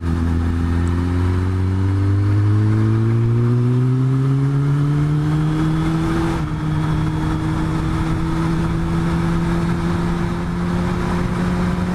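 Motorcycle engine pulling under acceleration, its pitch climbing steadily for about six seconds, then holding at a steady note.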